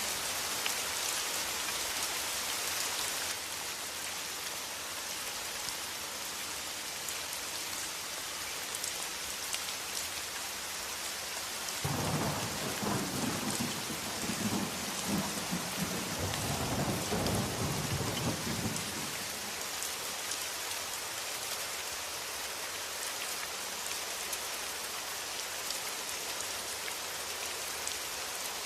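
Steady rain, an even hiss that eases slightly about three seconds in. About twelve seconds in, thunder rumbles and rolls for some seven seconds before the rain alone carries on.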